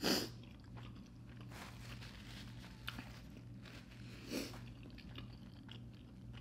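Close-miked chewing and mouth sounds of someone eating a slice of fettuccine Alfredo pizza, with two brief louder sounds, one right at the start and one about four seconds in.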